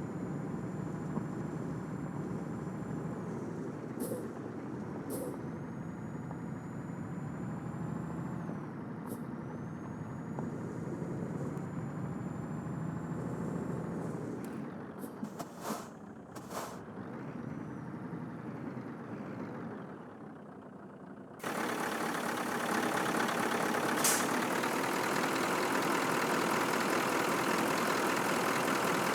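Scania truck's diesel engine running at low speed under load, with a thin high whistle that rises and falls and several short sharp hisses. About 21 seconds in, the sound changes abruptly to a louder, steady rushing noise.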